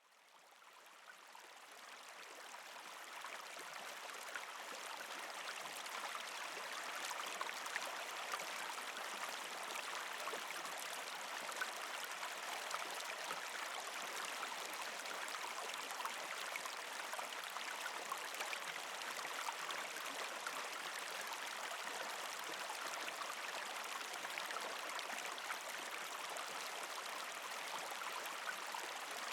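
Partially frozen creek flowing over rocks, a steady gurgling and trickling of water with many small splashes, fading in over the first few seconds.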